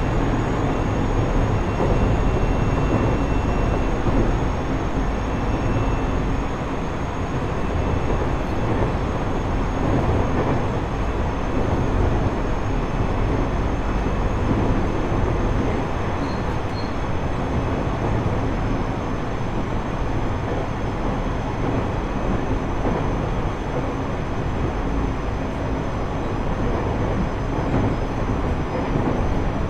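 Interior running noise of a JR East E127-series electric multiple unit, heard inside motor car KuMoHa E127-11 while cruising between stations. It is a steady rail-and-wheel rumble, heaviest in the low end, with faint steady tones riding over it.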